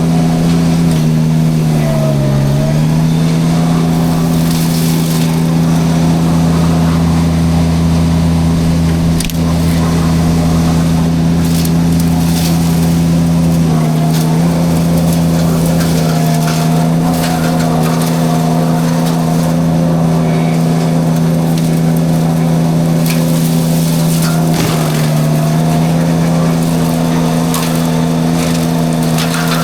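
Mini skid steer running at working throttle while its drum forestry mulcher shreds brush, with crackling and snapping of wood being chewed up. The engine pitch dips briefly under load about two seconds in and again around the middle and near the end, then recovers.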